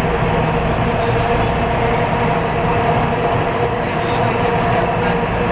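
Taipei Metro C301 train running, heard on board: a steady rumble of wheels on rail with a steady hum of two tones over it.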